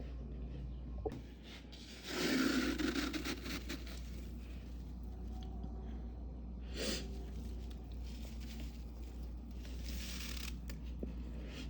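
Crisp freezer frost crunching in three scraping passes, the loudest and longest about two seconds in, over a steady low hum.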